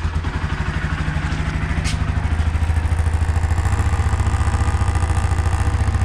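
Honda CB Twister 250 single-cylinder motorcycle engine idling steadily just after starting, with the loose licence plate rattling against its mount. The plate has no backing bracket and is vibrating with the engine.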